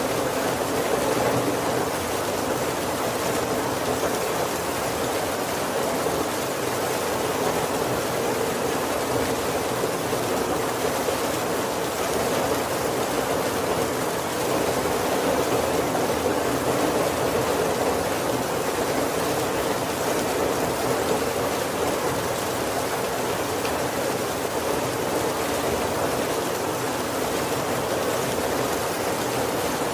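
Heavy rain falling steadily on a wooden carriage roof: an even, unbroken rush with no thunder.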